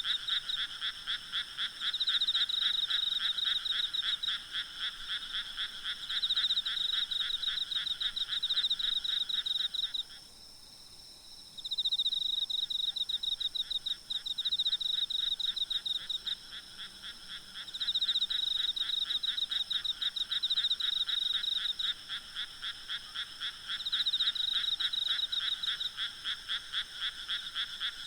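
A chorus of frogs croaking in fast pulsed runs, over a steady high insect trill. The frog calling stops briefly about ten seconds in, then starts again.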